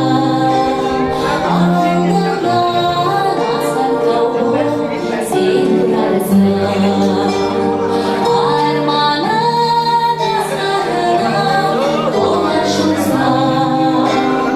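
A woman singing a Kazakh song with instrumental accompaniment, holding one long note about two-thirds of the way in.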